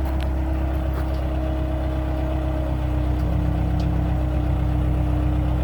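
Diesel engine running steadily at idle with a constant low drone; its note shifts slightly about three seconds in.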